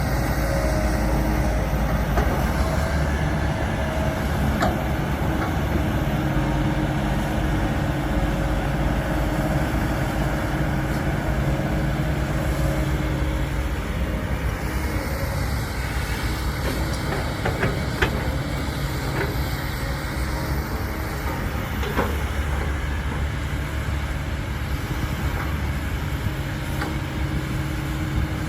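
Heavy diesel earthmoving machinery running steadily, its engine drone shifting slightly in pitch, with a few sharp metallic knocks, the clearest about 5, 18 and 22 seconds in.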